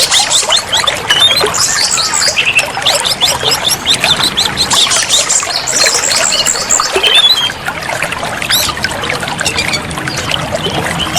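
Oriental magpie-robin (kacer) song: a dense, continuous run of rapid, varied chirps, whistles and trills, over a steady trickle of running water.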